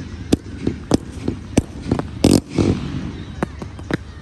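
Low-noise fireworks going off: a string of sharp pops and cracks at irregular intervals, with one louder, longer burst about two seconds in.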